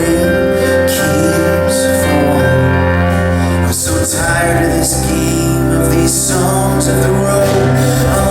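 Live performance of a contemporary Christian song in an instrumental passage: sustained chords that hold steady, with a brief dip about four seconds in.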